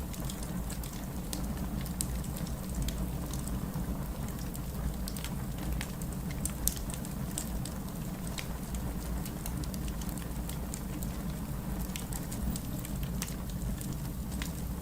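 Fireplace ambience: a wood fire burning with a steady low rumble and frequent irregular crackles and pops.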